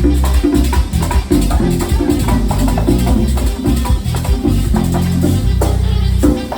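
Live merengue band playing an instrumental passage: steady bass and drums under a güira scraping out a quick even pulse. The bass holds long notes; near the end the texture drops briefly before the band comes back in.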